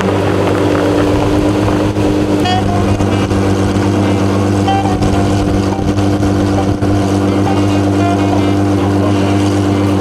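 De Tomaso P72's engine idling steadily at a constant speed.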